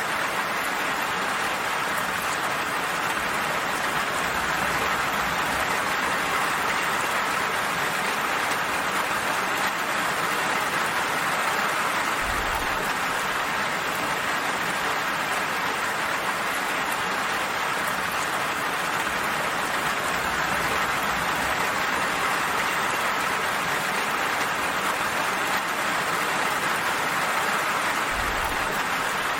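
Steady rain falling, an even hiss that does not let up, with two brief low thuds: one about twelve seconds in and one near the end.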